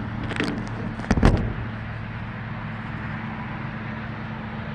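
Steady electric hum of outdoor HVAC units running, with a brief knock and rustle about a second in.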